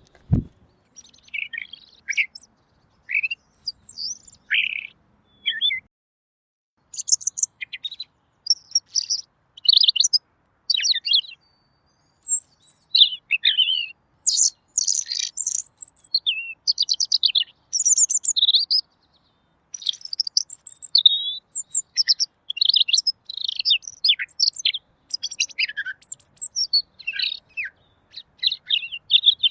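Pekin robin (red-billed leiothrix) singing clearly: a long run of quick, varied warbling phrases with short pauses, including a break of about a second some six seconds in.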